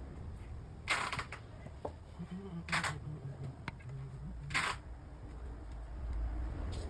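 Camera shutter mechanism clicking three times, evenly about two seconds apart, with small faint clicks in between.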